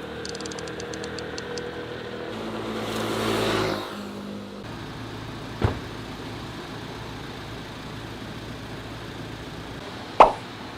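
Motor vehicle running steadily, swelling louder around three to four seconds in and then settling back, with two sharp knocks, one near the middle and one near the end.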